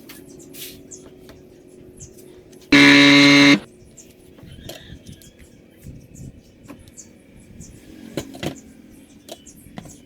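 A UPS unit's buzzer giving one loud, buzzy beep just under a second long, with faint handling clicks around it.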